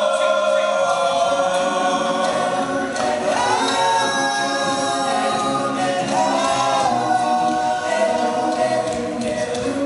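All-male a cappella group singing in close harmony, with sustained chords and voices imitating the band's instruments. A low bass voice comes in about a second in.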